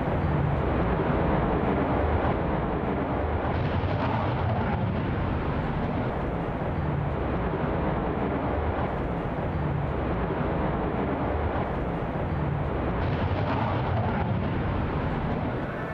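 Jet engines of a formation of F-35A fighters (Pratt & Whitney F135 turbofans) running in flight, a steady, loud noise with little change in level.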